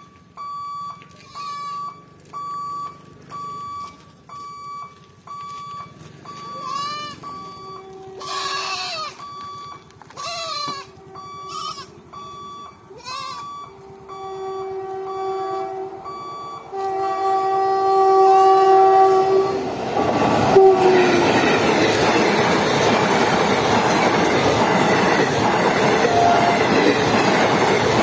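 Level-crossing warning alarm beeping in steady pulses, with a few wavering animal calls over it, until about halfway. Then the WAP-4 electric locomotive sounds two long horn blasts, the second dropping in pitch as it reaches the crossing, and the train passes close by with a loud rush of wheels on the rails, the loudest part.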